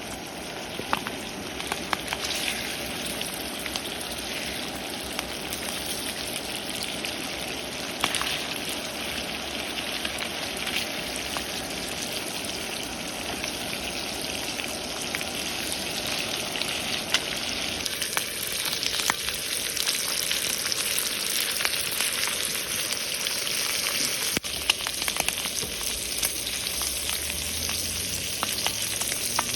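Food frying in a hot pan: a steady sizzle with scattered pops and crackles, getting a little louder about two-thirds of the way through.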